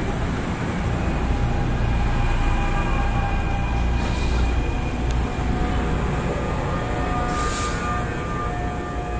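A passing NJ Transit commuter train: a steady, heavy rumble with a few faint whining tones over it. There are two short hissing bursts, about four and seven and a half seconds in, and the sound eases off slightly near the end.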